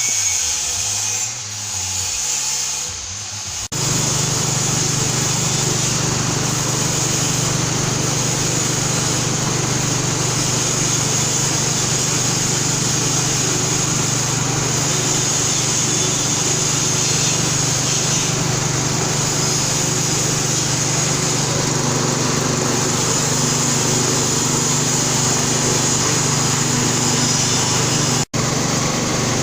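Motor-driven ginger press machine running with a steady mechanical hum and whir. The sound shifts and settles into an even run about four seconds in, and cuts out for a moment near the end.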